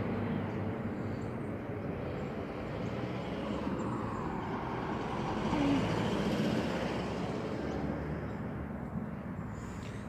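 Rumble of a passing vehicle, swelling in the middle and fading toward the end.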